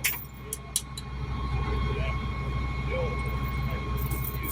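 Heavy truck's diesel engine running steadily as it pulls a shipping container onto its deck, with a steady high whine over the low drone and a few sharp clicks about a second in.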